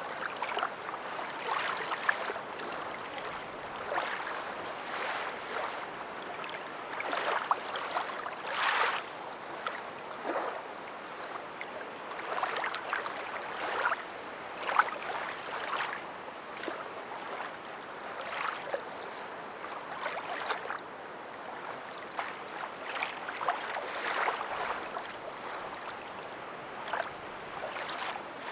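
Water splashing and sloshing in irregular bursts over a steady wash.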